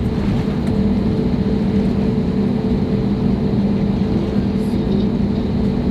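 Airbus A321neo's turbofan engines running, heard inside the passenger cabin: a loud, even rush of noise with two steady low hums under it.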